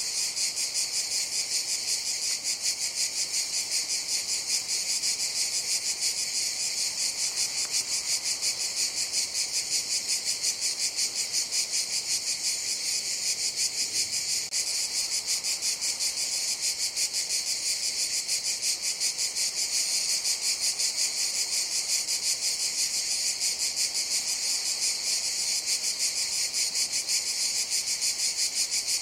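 Cicadas chorusing: a dense, steady, high-pitched buzz with a fast, even pulse that does not change.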